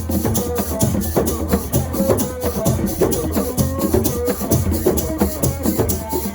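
Assiko percussion music: a shaker keeps fast, even strokes at about five a second over drums and a steady low bass, with short melodic lines on top.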